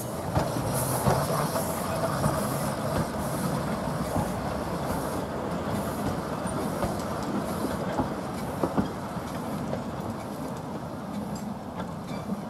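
Talyllyn Railway narrow-gauge train running along the track: a steady rumble and rattle of wheels and carriages, with a few sharp knocks from the rail joints.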